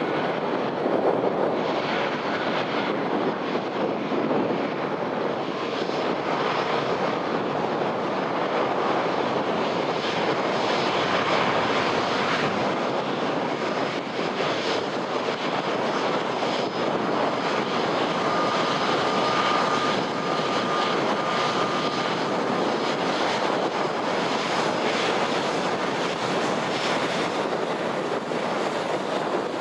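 Airbus A320 airliner's jet engines running steadily, mixed with wind buffeting the microphone. A faint steady high tone shows for a few seconds past the middle.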